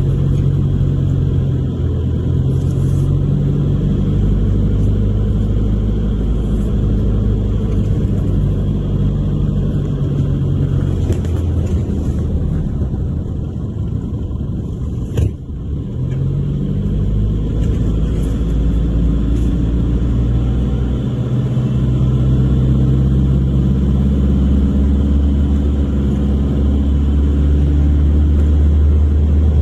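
Car engine running while driving, its pitch stepping up and down several times as it speeds up and shifts gear. A single sharp knock about halfway through.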